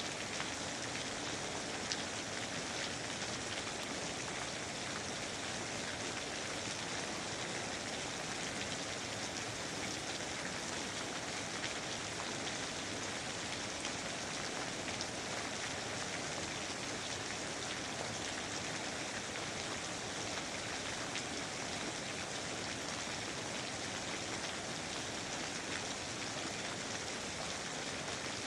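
Steady, even rainfall pattering on foliage and surfaces, with scattered individual drops.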